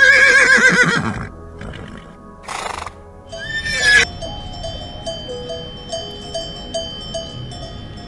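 A horse whinnies loudly with a quavering pitch that falls away after about a second. A short breathy snort follows, then a second, rising call that cuts off suddenly about four seconds in. Background music carries on alone after that.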